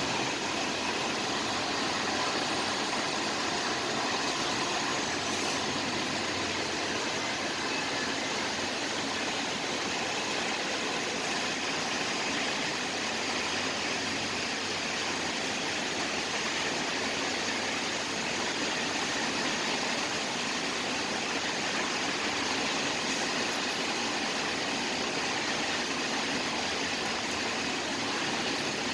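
Steady city ambience of rain falling, blended with a continuous hum of traffic, an even hiss with no distinct events.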